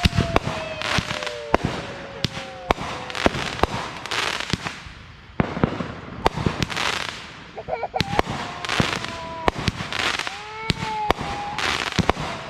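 Consumer fireworks going off: a rapid, irregular series of sharp bangs and pops, with crackling bursts between them.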